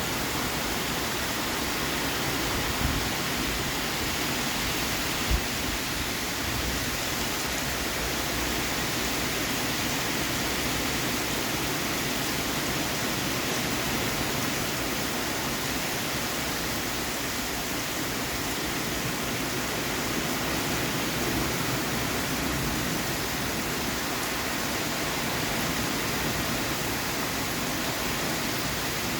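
Steady heavy rain, an even hiss without pause. Two brief low thumps stand out a few seconds in.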